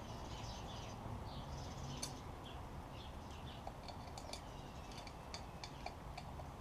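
Small birds chirping faintly, with a few sharp light clicks in the second half.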